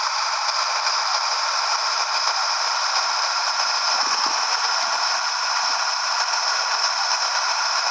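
Steady, unbroken hiss of static with no low rumble beneath it.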